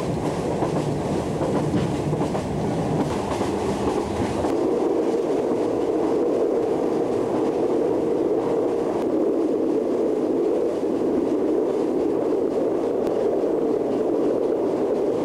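Passenger train running at speed, heard from inside the carriage: a continuous rumble and rush of the wheels on the rails. About four and a half seconds in, the deepest rumble drops away, leaving a steadier, higher rush.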